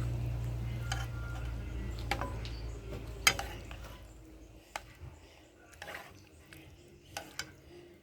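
Cutlery clinking lightly against dishes a few times, one louder clink about three seconds in. A low hum underneath fades out over the first half.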